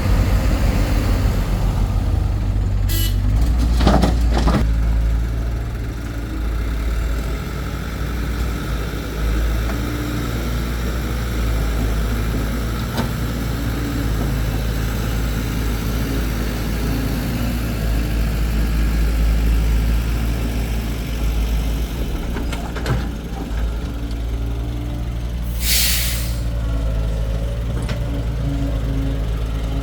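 Excavator's diesel engine running steadily under a low drone while it digs, with two short hisses, about three seconds in and again near the end.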